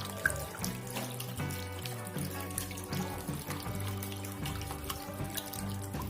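Water pouring and splashing steadily down a small homemade cement waterfall fountain, over background music.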